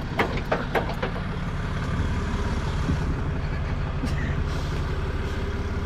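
Tow truck engine running with a steady low rumble. A quick run of sharp knocks and clanks comes in the first second or so, as the towing gear shifts or drops.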